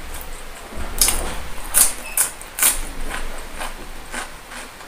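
Close-miked chewing of a crisp cucumber slice: a run of irregular wet crunches, loudest from about one to two and a half seconds in.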